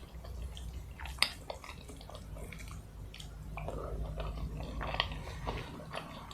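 Close-miked chewing and mouth sounds of someone eating a meal: a run of small irregular clicks, with one sharper click about a second in, over a low steady hum.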